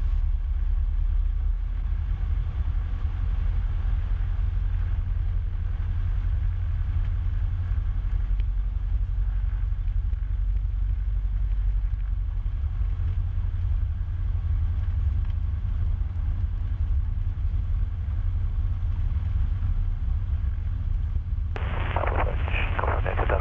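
Cessna 150's Continental O-200 four-cylinder engine running steadily at low power as the aircraft lines up on the runway, a deep drone heard through the cockpit intercom audio. Radio speech comes in near the end.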